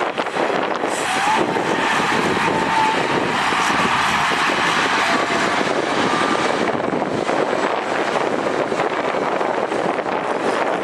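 Heavy diesel earthmoving machinery running steadily under load, a dense continuous mechanical noise, with a faint high squeal about one to three seconds in.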